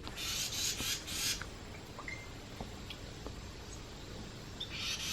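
House wren nestlings begging: harsh, raspy, hissing bursts in two bouts of several each, one at the start and one near the end, with a single short thin chirp between them.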